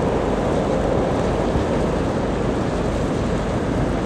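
Loaded coal freight train rolling across a steel truss railway bridge, a steady rumbling noise with no distinct clanks or horn.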